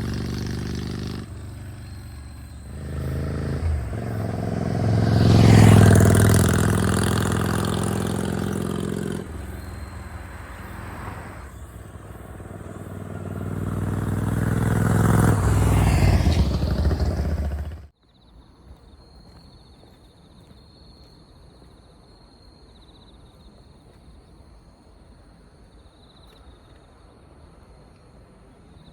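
Yamaha Drag Star 400 Classic's V-twin exhaust, swelling and fading twice with the pitch sweeping up and down. It cuts off suddenly about two-thirds of the way in, leaving only a faint hiss.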